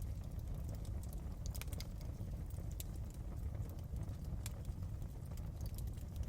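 Wood fire burning in a fireplace: a steady low rumble of the flames with irregular sharp pops and crackles from the logs.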